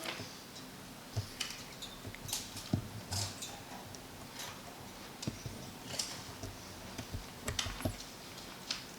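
Scattered light clicks and taps at irregular intervals, some close together and some a second or more apart.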